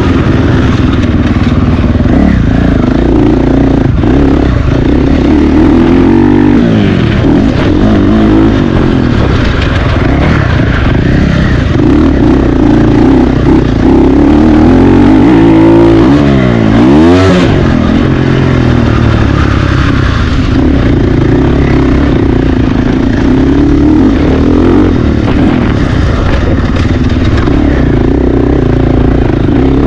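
Motocross motorcycle engines racing, loud and continuous, the pitch repeatedly falling and climbing as the throttle is chopped and opened, with one sharp dip and climb about halfway through.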